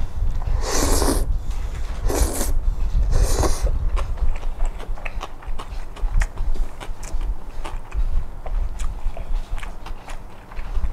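Close eating sounds: chewing with many small wet clicks, and three short hissing bursts in the first few seconds, over a steady low rumble.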